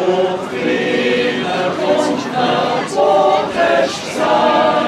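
Swiss yodel choir singing unaccompanied in harmony, several voices holding notes and moving together to new notes about every half second.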